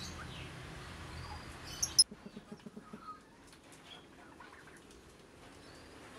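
Birds chirping over a low hum, with a sharp click about two seconds in followed by a quick run of soft flutters, then fainter scattered chirps.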